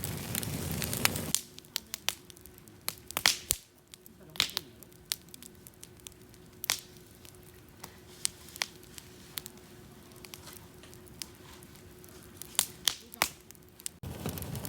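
Campfire crackling, with many sharp pops at uneven intervals. A louder rushing noise fills the first second or so, cuts off suddenly, and returns abruptly near the end.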